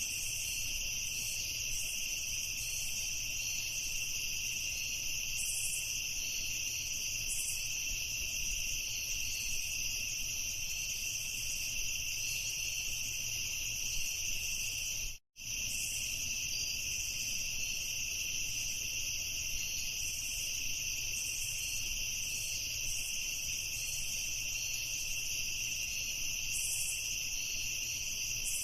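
Chorus of crickets chirping steadily and densely in a high pitch, cutting out for an instant about halfway through.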